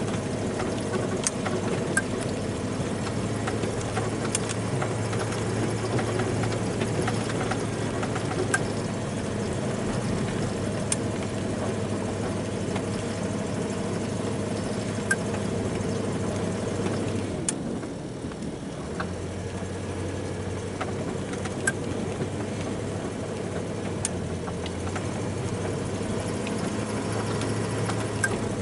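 Snow-plowing truck's engine running steadily, with a few faint sharp clicks. The engine note dips briefly about two-thirds of the way through, then picks up again.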